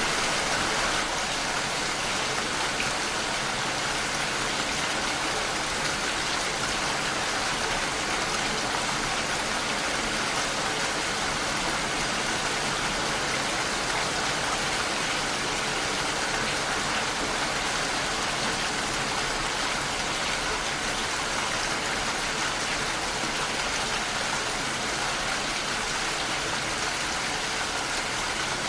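Steady rain falling against a window, an even patter without a break.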